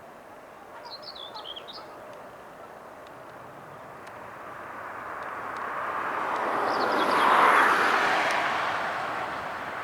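Jet airliner passing: a broad rush of engine noise that swells over several seconds, peaks about three-quarters of the way through, then fades. A bird chirps briefly about a second in.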